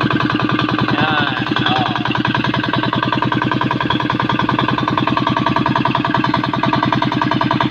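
Single-cylinder diesel engine (Yamato 198FA) running steadily at an even speed while it is being broken in.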